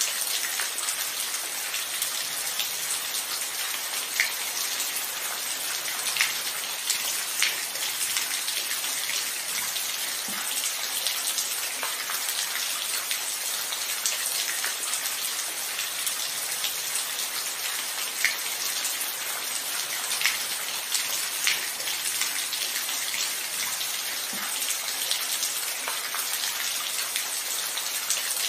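Steady rain falling, an even hiss with scattered louder drops ticking close by now and then.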